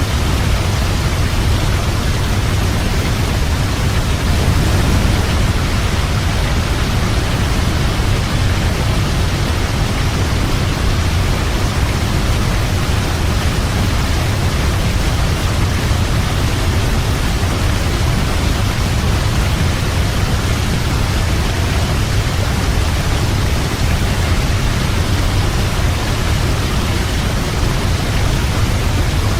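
Waterfall: a steady, unbroken rush of falling water with a deep rumble beneath.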